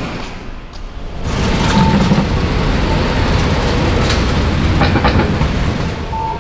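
A train running past: a steady rumble that swells about a second in, with a few sharp clicks partway through.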